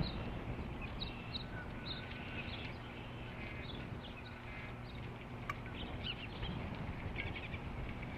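High wind buffeting the nest-camera microphone with a steady low rumble, while birds give short high chirps throughout. One sharp click about five and a half seconds in.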